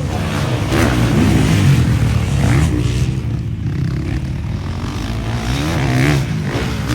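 Motocross motorcycle engines revving, the pitch climbing and dropping again and again as the bikes run the track.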